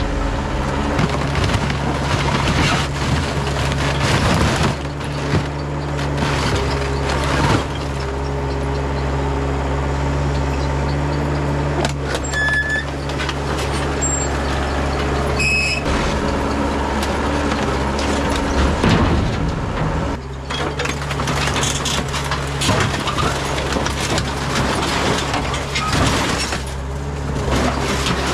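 Excavator's diesel engine running steadily, its pitch shifting slightly as the load changes, with repeated clanks and knocks over it.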